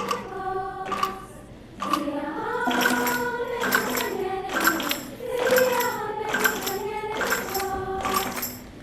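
A choir singing with accompaniment, with a sharp percussion hit about once a second through most of the passage.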